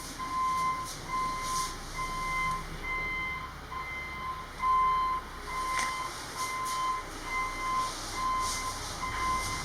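Electronic warning beeper sounding a single steady pitch, repeating about one and a half times a second, like a vehicle's reversing alarm, with a few faint knocks.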